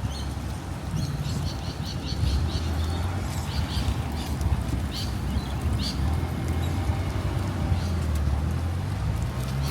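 Small birds chirping in short repeated notes over a low, steady rumble.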